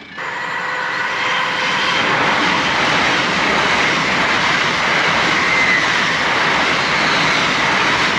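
LNER Azuma high-speed train passing a level crossing at speed, close by: a loud, steady rush of wheels and air that comes in suddenly just after the start and holds.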